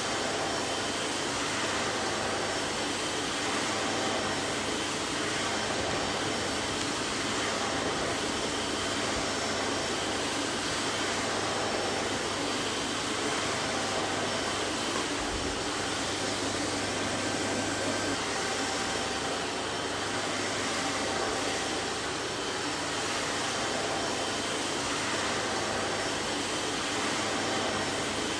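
Vacuum cleaner running steadily: an even rushing hiss of motor and airflow with a faint hum, no change in pitch or loudness.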